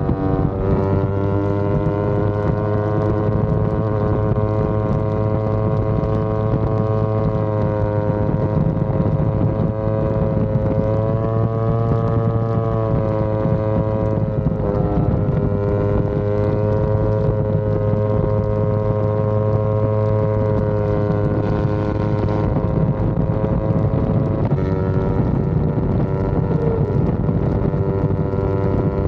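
Yamaha R25's parallel-twin engine running under way at steady mid revs, its pitch drifting gently up and down, with brief dips about halfway through and again near the end.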